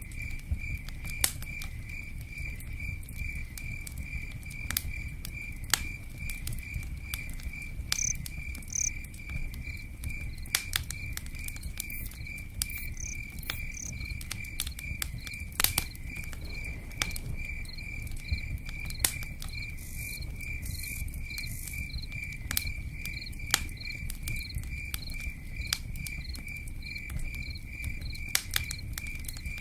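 Crickets chirping steadily in an even, rapid rhythm, over a low rumble with scattered sharp pops and ticks from a crackling campfire and rain pattering.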